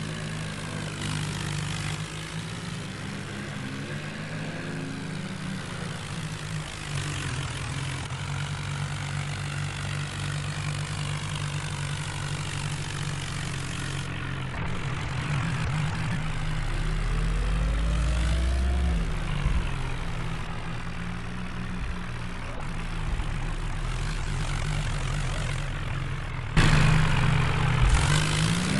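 Tractor diesel engine running steadily, with a rise in engine speed a little past halfway. It gets suddenly louder near the end.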